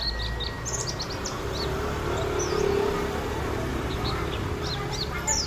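White-eye (pleci) birds chirping in short, high notes, scattered about the first second and again near the end, over a steady background noise with a brief low hum around the middle.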